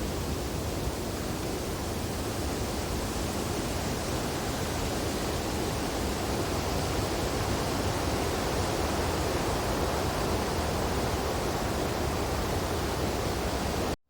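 Wind blowing steadily through tree branches in snow, an even rushing noise without gusts or distinct events. It cuts out abruptly for a moment near the end, then resumes.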